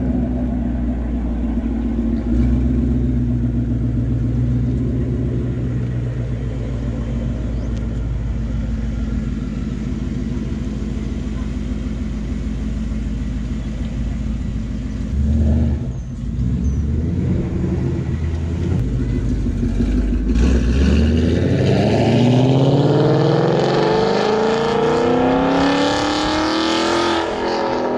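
2019 Mustang GT's 5.0-litre V8 idling with a steady low note, then about twenty seconds in it accelerates, its pitch climbing as the revs rise.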